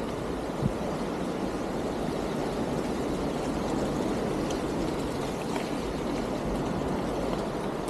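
Steady rushing noise of a single-speed mountain bike being ridden, tyres on the trail and wind on the chest-mounted microphone.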